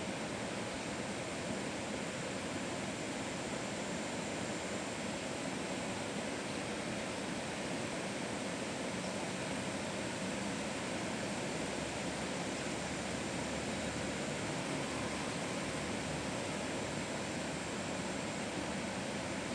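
Heavy rain falling, a steady hiss that holds level throughout.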